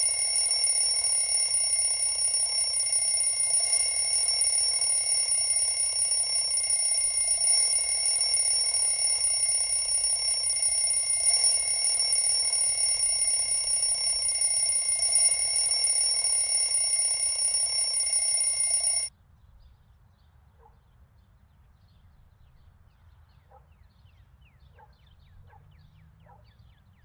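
Alarm clock bell ringing steadily for about nineteen seconds, then cut off suddenly, leaving a few faint clicks.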